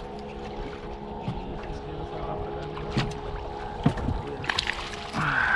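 A motor running with a steady drone, with several sharp knocks and clicks in the middle and a louder hiss starting near the end.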